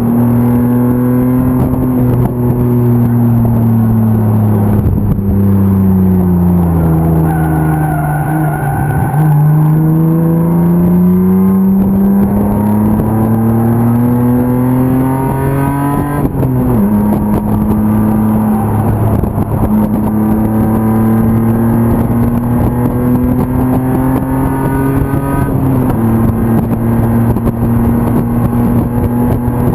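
BMW M50 inline-six in an E36 BMW 325 race car, heard onboard at racing speed. The revs fall for several seconds and then climb under acceleration. They drop sharply a little past halfway as it shifts up, then climb steadily again with a smaller drop near the end.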